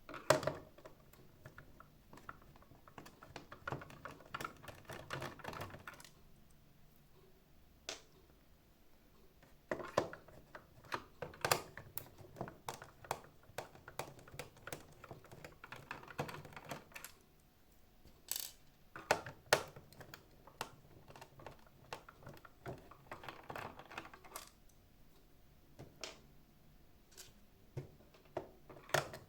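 Irregular clicks, taps and scraping of small hard plastic parts and tools being handled while a robot vacuum cleaner is taken apart, with a few louder sharp clicks.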